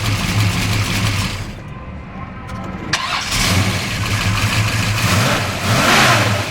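1969 Chevelle's solid-lifter 454 big-block V8 running, with a lull a second or two in, then revved up and back down about five and a half seconds in.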